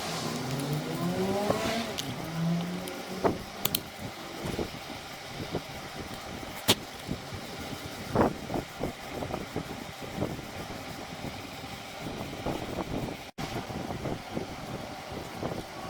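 A small engine revving up briefly at the start, its pitch rising, then running on under scattered knocks and clicks.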